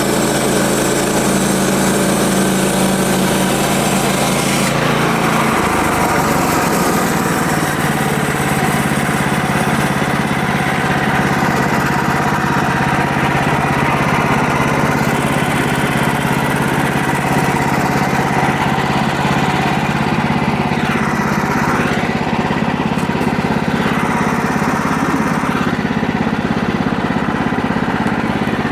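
Engine-driven sawmill running through a cut in a log. The engine note drops about five seconds in and then holds steady.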